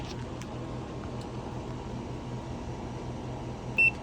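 Steady low electrical hum, with one short high beep from a multimeter's continuity tester near the end.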